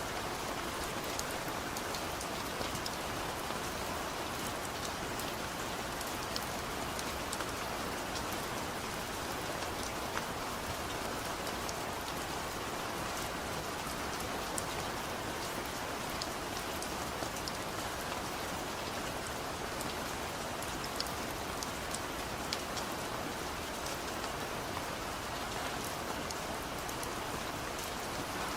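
Steady heavy rain, a continuous hiss with scattered drop ticks on a hard surface.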